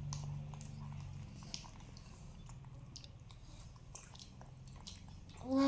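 Soft wet chewing and smacking of juicy pomelo pulp being eaten, with many small scattered clicks. A faint low hum sounds for about the first second, then fades.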